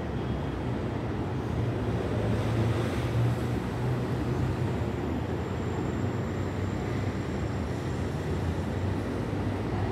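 Electric commuter train pulling away along the track, a steady low rumble with a faint high whine in the second half.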